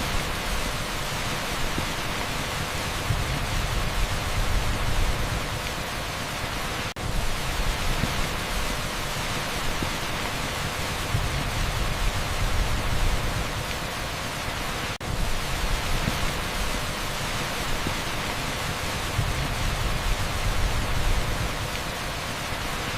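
Heavy, steady downpour on an asphalt street: a dense, even hiss, with a brief dip in level about every eight seconds.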